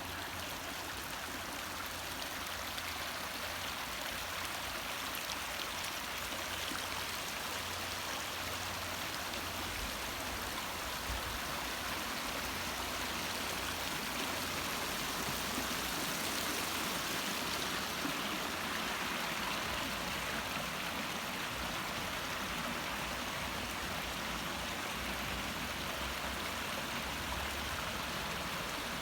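River water flowing steadily, an even rushing sound, with a low uneven rumble underneath.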